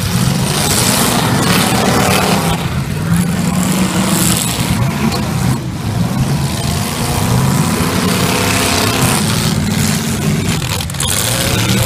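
Several stock V8 demolition derby cars' engines revving and running together, their pitch rising and falling as they rev up and back off.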